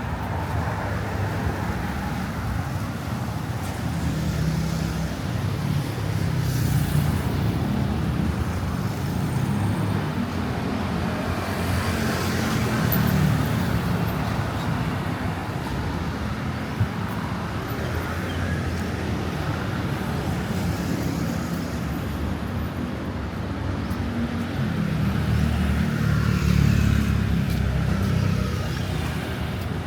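City street traffic: cars and other vehicles running and passing, a continuous low engine rumble that swells several times as vehicles go by, with one short click about halfway through.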